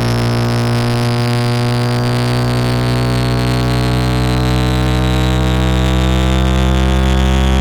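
Synthesized electronic drone made of many steady tones layered together, strongest in a low hum, with a high tone slowly falling in pitch.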